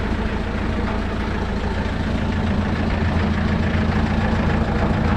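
Tractor engine running steadily, driving a PTO-mounted concrete mixer.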